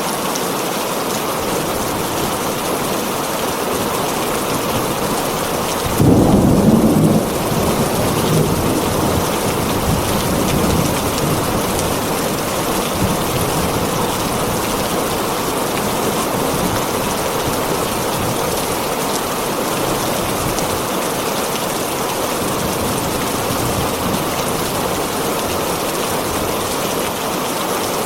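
Heavy rain drumming steadily on a tin roof. About six seconds in a loud clap of thunder breaks in and rumbles away over the next few seconds.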